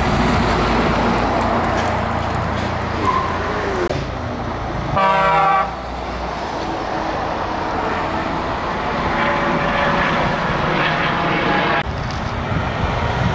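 Heavy trucks running as they drive past, with one loud horn blast lasting about half a second about five seconds in.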